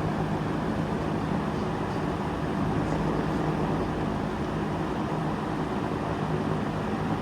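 1972 S23/P23 transitional box fan running steadily: a constant rush of air with a low electric motor hum.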